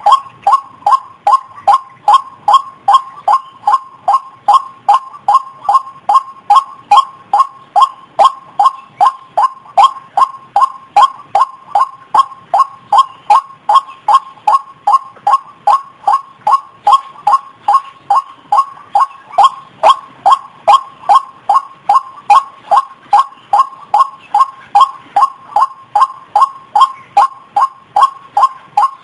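White-breasted waterhen (ruak-ruak) lure call: short, same-pitched notes repeated steadily at about two and a half a second without a break.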